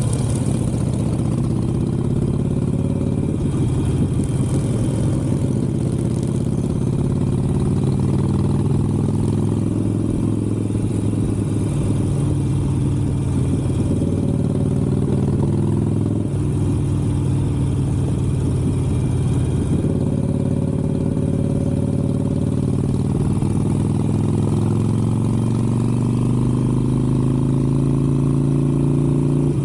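Harley-Davidson Sportster 883's air-cooled V-twin engine running steadily at road speed, its pitch drifting gently up and down with the throttle and climbing near the end.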